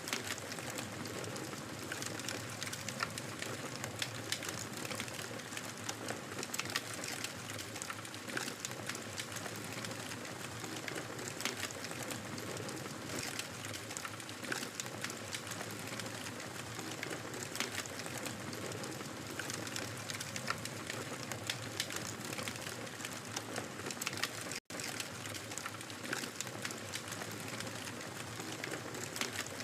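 Wood fire in a fireplace crackling: a steady hiss with many irregular, sharp pops and snaps. The sound drops out for a split second late on.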